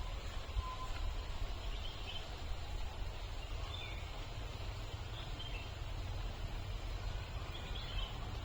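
Outdoor ambience: a steady low rumble and hiss with a few faint, short bird chirps scattered through it.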